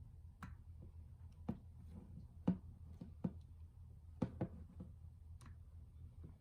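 About eight irregular small clicks and taps, as of small parts or tools being handled, over a low steady hum.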